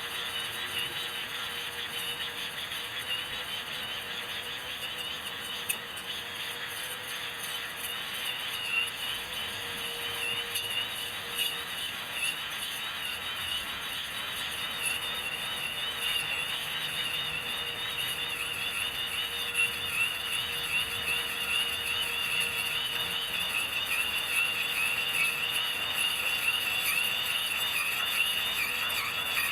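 Electric grass trimmer running while cutting grass: a high, wavering whine over a steady hum, growing stronger in the second half.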